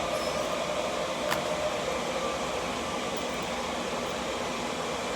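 Steady rushing air noise from a running blower, such as a grooming dryer or fan, with one short click about a second and a half in.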